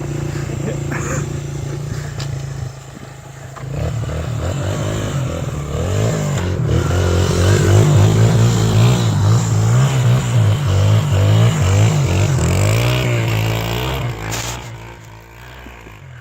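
Honda XR100 dirt bike's single-cylinder four-stroke engine running steadily, then revving up and down again and again from about four seconds in. It fades away near the end.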